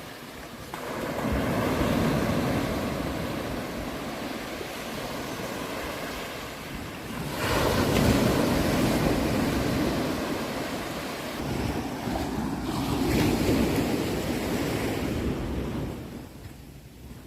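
Sea waves breaking and washing on a shore in slow swells. One swell builds about a second in, a bigger one rises about seven seconds in, and it subsides near the end.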